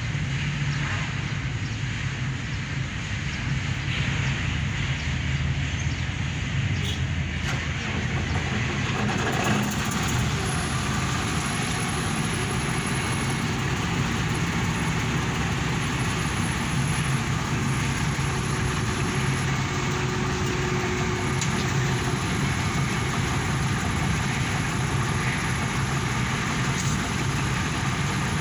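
Engine idling steadily after having its main bearings replaced, with no knock standing out; the sound brightens slightly about eight seconds in.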